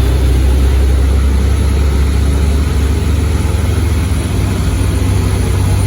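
Heavy truck engine running close by: a loud, steady low drone, its pitch shifting slightly a little past the middle.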